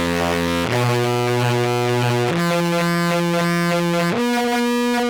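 Contrabass clarinet played through a KMA Horizont with its phaser section on into Jackson Audio modular fuzz, giving a buzzy, synth-like tone. Held notes step up in pitch three times, about every one and a half seconds.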